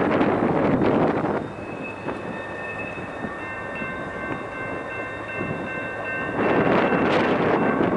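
Freight train rolling past, with several steady high squealing tones, typical of wheel flange squeal, coming in one after another from about a second and a half in. Gusts of wind buffet the microphone at the start and again near the end.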